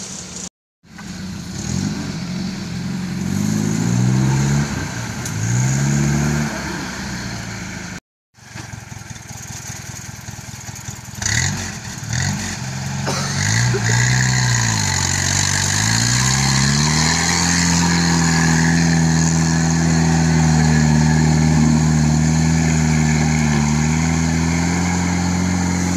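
Off-road 4x4's engine revving up and down again and again as it works through deep mud, then held at steady high revs for the last third. Two brief dropouts break the sound early on and about a third of the way in.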